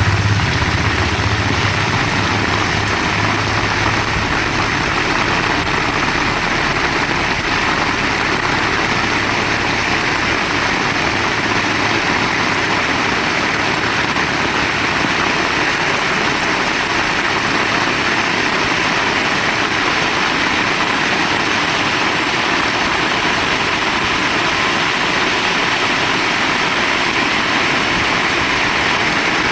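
Heavy rain falling with a steady, even hiss. A low rumble sits under it at first and fades away around halfway through.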